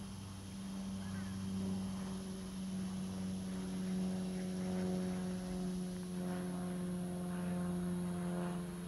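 Steady low drone of a distant motor, pitch holding nearly level and sagging slightly near the end.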